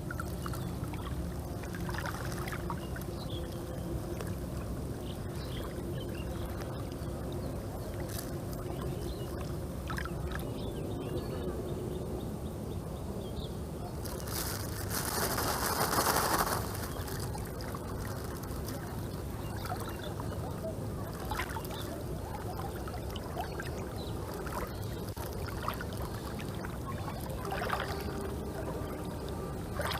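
Water trickling and sloshing, with a louder rush of pouring water lasting about two seconds near the middle.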